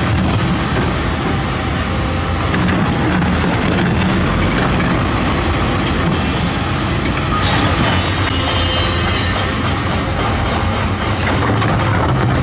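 Large crawler excavator's diesel engine running steadily under load while digging dirt, with a brief clatter about seven and a half seconds in.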